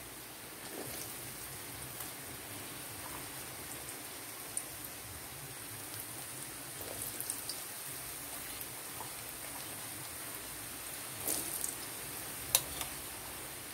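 Sweet potato cubes deep-frying with sugar in hot oil in a steel wok: a steady sizzle with scattered pops, a few sharper ones near the end.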